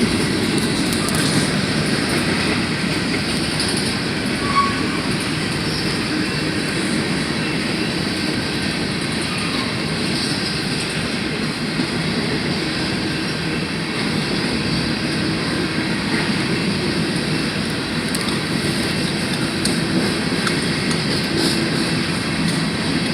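Railroad cars rolling past, a steady rumble of steel wheels on the rails with occasional faint clicks.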